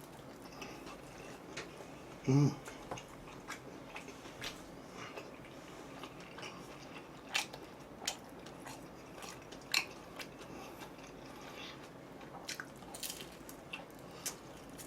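Close-miked eating of pizza with rice: scattered crisp crunches and wet mouth clicks of biting and chewing, with a brief hummed "mm" about two seconds in.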